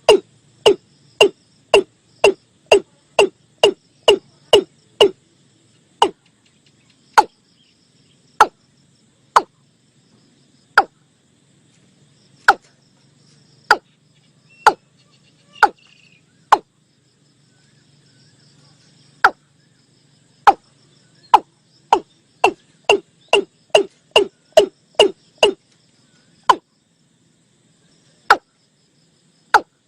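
Watercock calling: a run of short knocking 'kok' notes, about two to three a second, that slows to spaced single notes, stops briefly past the middle, then quickens again and thins out near the end.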